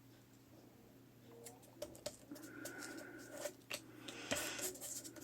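Paper and cardstock being handled at a craft table: light rustling with scattered small clicks and taps, starting about a second and a half in.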